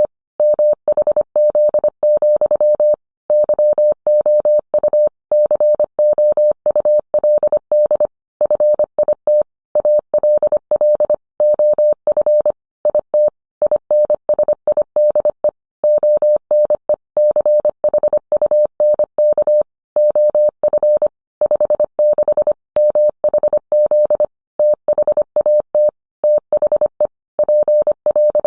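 Morse code: a single steady mid-pitched beep keyed on and off in quick dots and dashes, with longer pauses between words.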